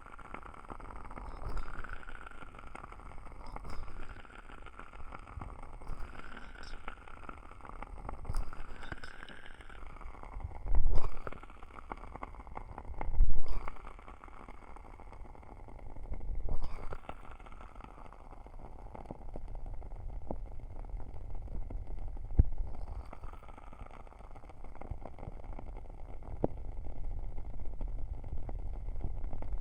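Ear cupping on a binaural microphone: its ears are pressed and covered, giving muffled, rumbling swells every couple of seconds, with three louder surges in the middle. Small crackles from a wood-wick candle tick through the background.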